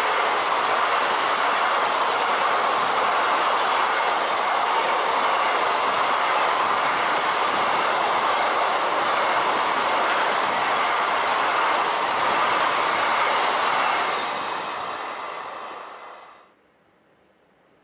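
A train passing, a loud steady rush of wheels running on the rails that fades over a couple of seconds near the end and then cuts off suddenly.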